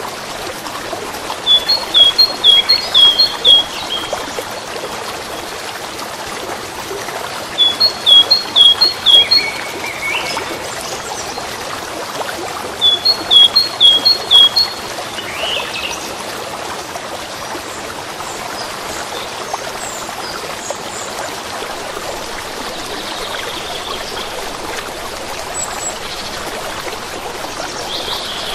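Running water trickling steadily, with a songbird singing a short phrase of about five quick notes three times, some six seconds apart, and fainter bird calls in between.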